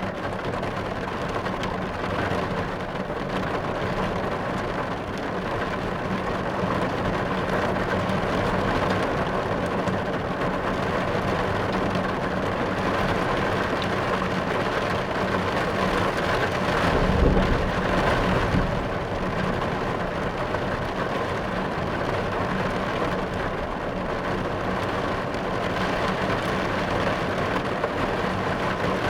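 Rain falling steadily on a car's roof and windshield, heard from inside the car. About seventeen seconds in, a low rumble of thunder swells and fades.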